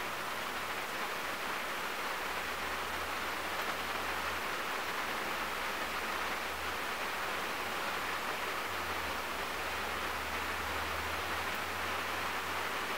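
Steady rain falling on a car, heard from inside the cabin: an even hiss of drops on the roof and glass. A faint low rumble comes and goes underneath, strongest in the second half.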